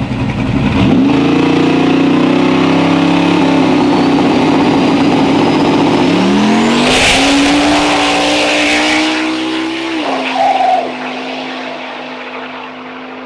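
Drag-racing car's engine revved hard and held at high revs. Its pitch rises again about six seconds in, with a burst of tire noise. About ten seconds in it drops back to a steadier, lower hum.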